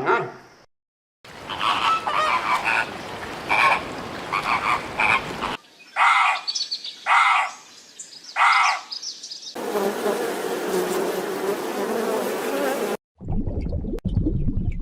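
Frogs croaking across several spliced clips: first a run of repeated calls, then three separate croaks about a second apart, then a dense chorus. Near the end a different, lower sound cuts in.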